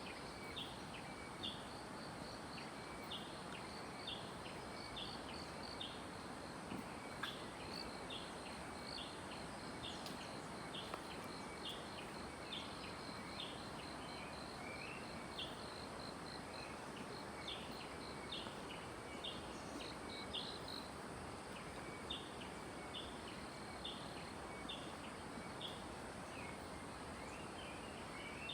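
Forest birds chirping, short high notes repeated roughly twice a second, with a fast, high pulsing trill above them, over a steady background hiss.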